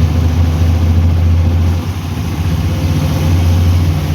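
Auto-rickshaw engine running under way, heard from the passenger seat with road noise; the engine note eases off briefly about two seconds in, then picks up again.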